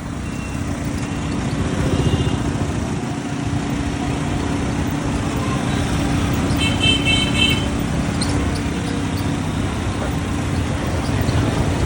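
Motorcycle engine running steadily under way in busy street traffic. A vehicle horn sounds in a quick run of beeps about seven seconds in.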